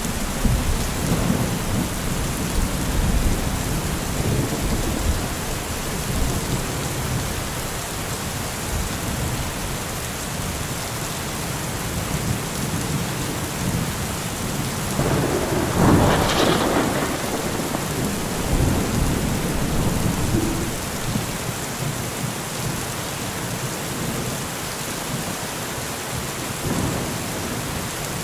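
Heavy rain falling steadily with rolling thunder rumbling underneath, swelling into a louder crack of thunder about halfway through.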